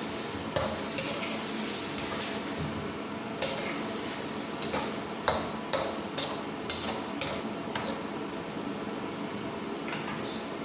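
Metal cooking utensil knocking against a cooking pan while the noodles are stirred: about a dozen sharp clicks at uneven spacing, some close together in the middle.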